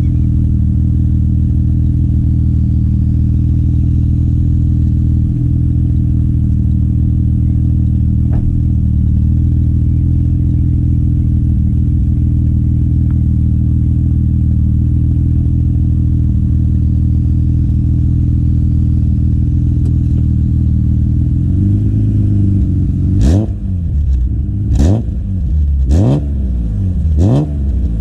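BMW E36 M3's S50B30 straight-six engine idling steadily, then revved in four quick blips near the end, each rising and falling sharply.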